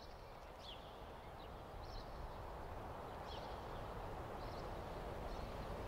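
Outdoor ambience: a steady hiss that slowly grows louder, with small birds giving short, falling chirps every second or so.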